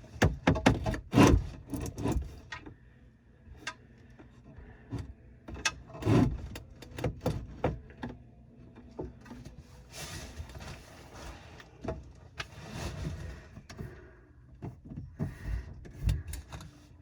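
Irregular knocks, clicks and rubbing of hands and tools working at a garbage disposal's electrical connection under a kitchen sink. The power wire is being forced through a very tight fit. The clicks come in clusters: a rapid run in the first two seconds, then scattered groups.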